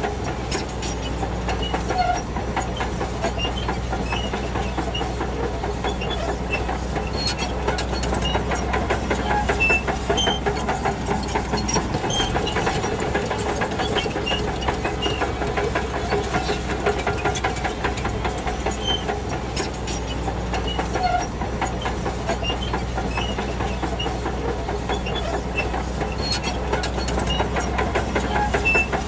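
Shantui DH17C2 crawler bulldozer working, its diesel engine running steadily under a constant, fast metallic clatter from its steel tracks.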